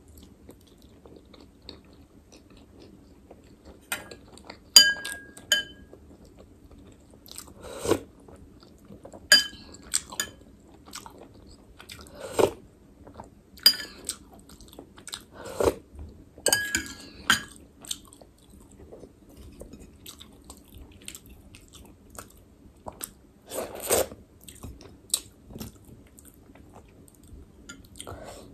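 Close-miked eating of chicken momos: irregular wet chewing and biting sounds every second or two, with a few short ringing clinks among them.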